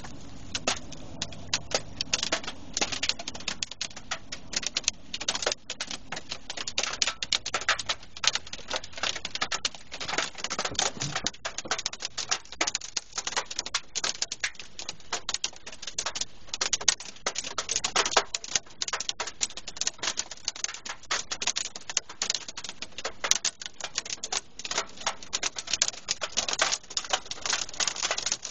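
Hailstones drumming on a small car's roof and windows, heard from inside the cabin: a dense, irregular rattle of sharp taps, at times thickening into bursts of heavier pelting.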